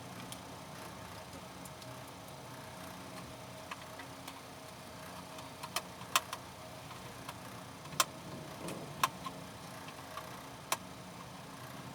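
A handful of sharp, separate clicks and taps of small hard objects, most of them in the second half, over a faint steady hum.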